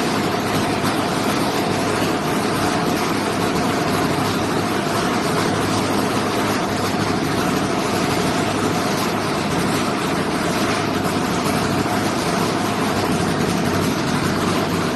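550cc UAV engine running steadily at a constant speed, a dense, unbroken engine noise with no change in pitch or level.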